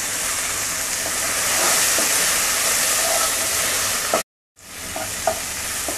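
Chopped vegetables and spice powders sizzling in hot oil in a non-stick pan as they are stirred with a wooden spatula: a steady hiss. It cuts out briefly a little after four seconds, then resumes with a few light spatula knocks.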